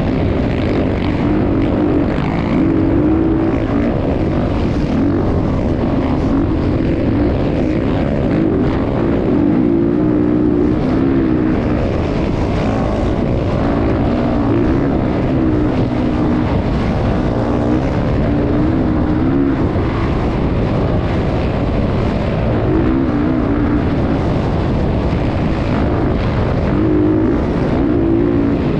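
Motocross motorcycle engine running loudly, its pitch rising and falling every second or two as the revs go up and down.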